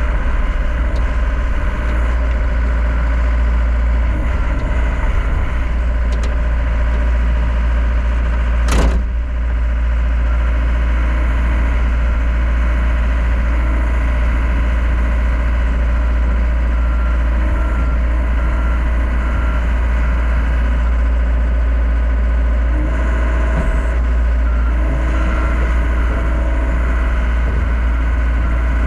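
John Deere 60G compact excavator's diesel engine running steadily, with a single sharp knock about nine seconds in.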